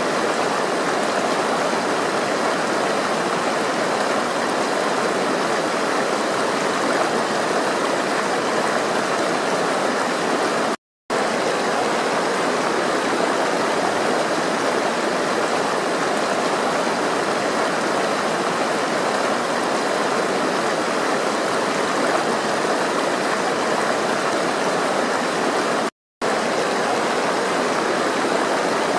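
Flowing water running steadily, an even stream-like wash with no distinct drips or splashes. The sound drops out to silence for a split second twice, about eleven and twenty-six seconds in.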